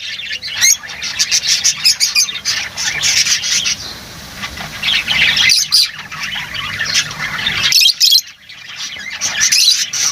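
Lovebirds chirping and squawking in rapid, overlapping bursts, like a flock calling together, with brief lulls about six and eight seconds in.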